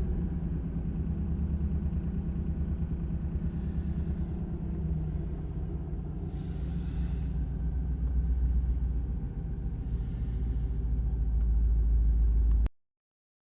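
1995 Lexus LS 400's 4.0-litre V8 idling steadily just after being revved. The sound cuts off suddenly near the end.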